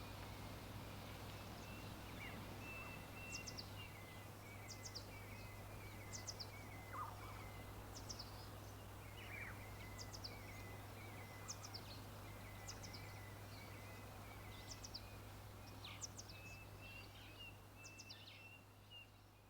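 Faint outdoor nature ambience with birds: short, high, falling chirps repeat about once a second over a thin, wavering high call and a steady low hum. It all fades out near the end.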